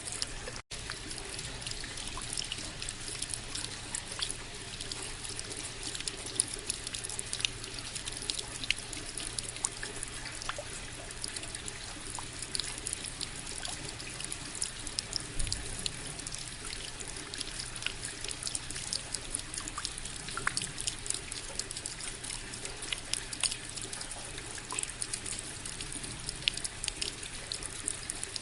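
Water running from a spout and falling onto water or stone: a steady trickling splash full of small droplet ticks. It breaks off for an instant about half a second in.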